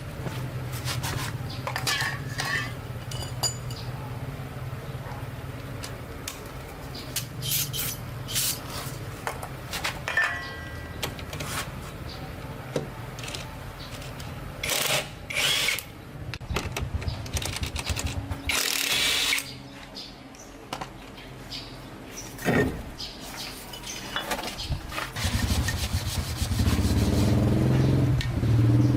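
Car-repair workshop noises: a steady low hum with scattered clicks, knocks and short hissing bursts. Near the end a louder, steady, engine-like running sound comes in.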